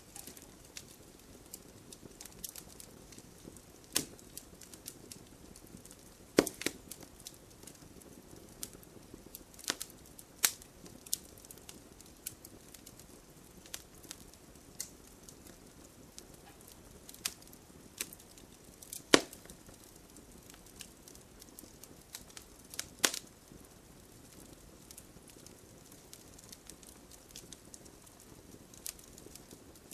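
Wood fire burning in a fireplace: a soft, steady hiss broken by irregular sharp crackles and pops, a few of them louder, near a quarter and two thirds of the way through.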